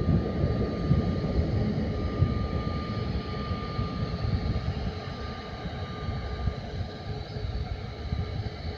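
Airbus A321neo's CFM LEAP-1A jet engines running: a steady rumble with a thin, even whine above it, easing off slightly.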